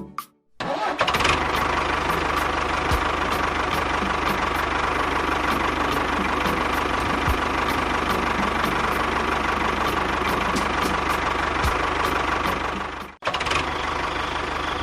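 A small motor running steadily, with a faint regular ticking, then stopping abruptly near the end.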